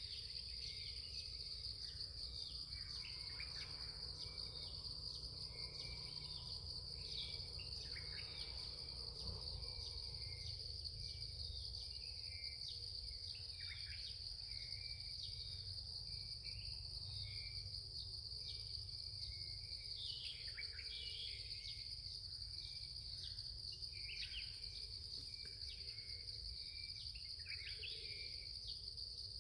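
Steady high-pitched drone of insects such as crickets or cicadas, with many short chirping bird calls scattered through it and a low rumble of wind underneath.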